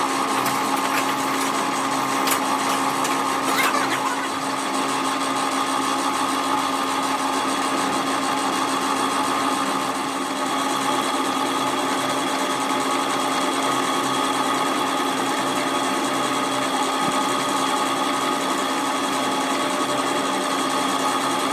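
A workshop machine's electric motor running at a steady pitch, with a few light clicks in the first few seconds.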